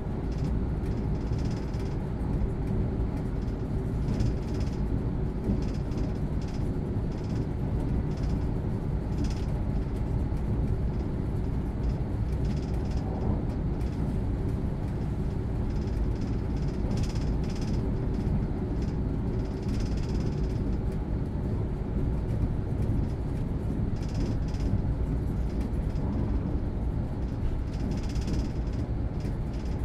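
Interior of a moving Hitachi Class 805 bi-mode train's motor carriage, running on diesel: a steady low rumble from the underfloor diesel engine and the wheels on the track. Short, faint hisses come and go every few seconds.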